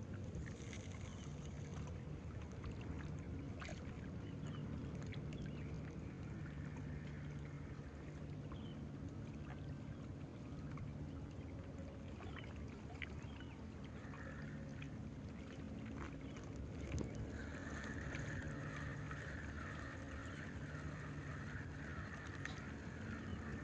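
Steady low drone of a boat engine running, with scattered light clicks. Near the end a high wavering tone repeats about once a second over it.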